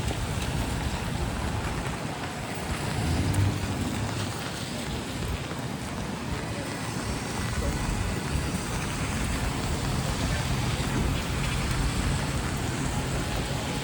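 Rainy city street ambience: a steady hiss of rain and tyres on wet pavement with traffic engines running low underneath. A vehicle passes a little over three seconds in.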